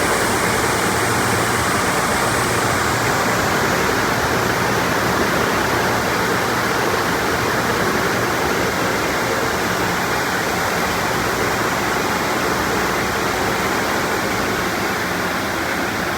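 MacNeil automatic car wash tunnel running: a steady, loud rushing of water spray with a low machine hum underneath.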